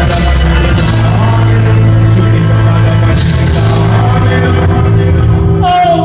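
Live band music played loud through a PA, with a heavy bass line and a steady drum beat; the bass and drums drop out just before the end.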